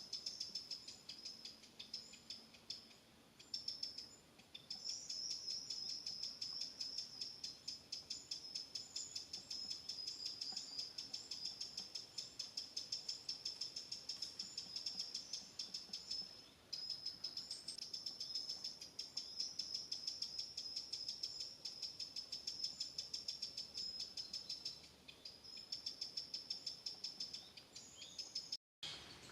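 An insect stridulating: a high-pitched, rapidly pulsed chirring that runs on in stretches of several seconds, with a few short pauses, and cuts out for a moment near the end.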